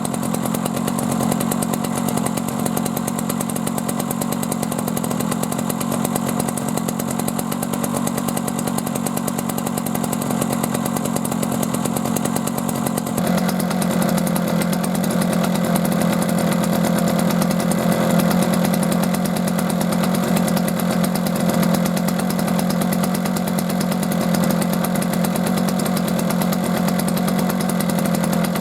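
Old Gasuden two-stroke stationary engine running steadily with a fast, even firing. About halfway through, its note shifts and it grows slightly louder.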